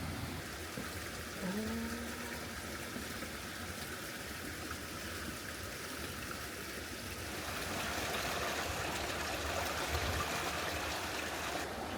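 Steady trickle of running water, growing louder about seven and a half seconds in.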